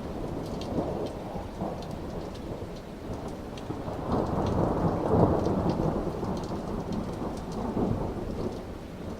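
Rolling thunder from a thunderstorm overhead, rumbling low and swelling to its loudest about five seconds in before fading, with rain pattering and dripping throughout.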